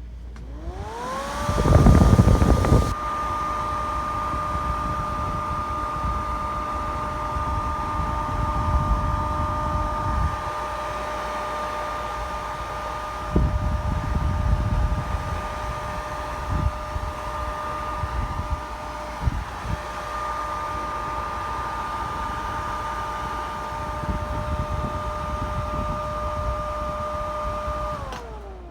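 Pellet stove exhaust blower, a closed-frame unit whose case is now crimped firmly to the motor frame, spinning up to a steady whine, running smoothly without rattling, then switched off and winding down near the end. Gusty rushing noise comes and goes over it and is loudest just after start-up.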